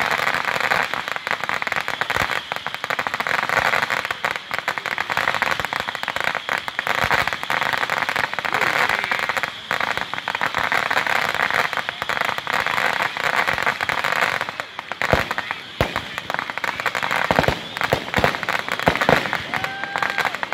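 Fireworks going off: a dense run of many small crackling reports, then more widely spaced, heavier bangs of aerial shells bursting in the last few seconds.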